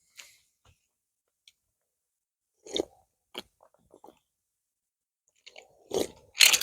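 A person chewing and biting food up close, a few separate short crunching, smacking sounds with silences between, the loudest near the end.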